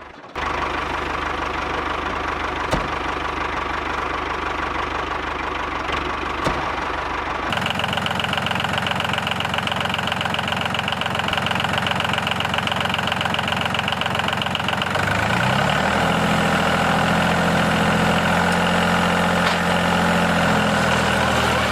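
A small motor running steadily with a buzzing hum. Its tone changes abruptly about a third of the way in, and its pitch rises around two-thirds of the way through.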